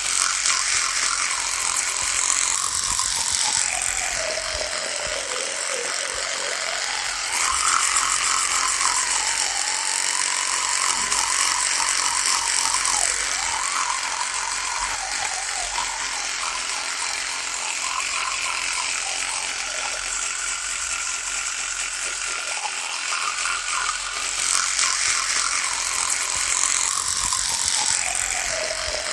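Electric toothbrush running continuously, a rattling buzz whose pitch dips and rises every few seconds as the brush head is pressed against the teeth and eased off.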